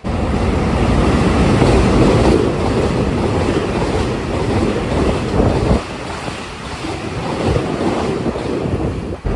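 Taiwan Railway express train passing at about 126 km/h, a loud, steady rush of wheel, rail and wind noise.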